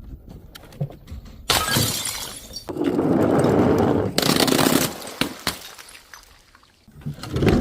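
Glass bottles breaking in several crashes: a sudden one about a second and a half in, a longer stretch of breaking glass after that, and another crash near the end.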